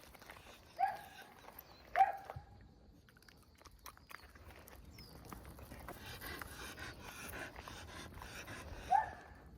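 Excited Shiba Inu whining in three short, high yelps, about one second in, two seconds in and near the end, with panting in between: the impatient noises of a dog waiting for a treat.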